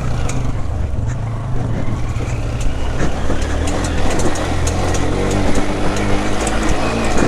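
Motorcycle engine running steadily while the bike is ridden over a rough stream-bed track, under a constant rushing noise with scattered small clicks.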